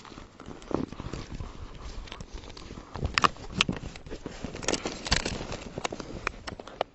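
Irregular knocks, clicks and rustling of gear being handled aboard a fishing kayak, with a few sharper knocks near the middle.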